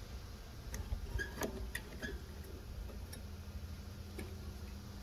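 A few light, irregular clicks and taps of small metal and plastic parts being handled on a small engine, as a clamp is worked onto the carburetor fittings and will not seat.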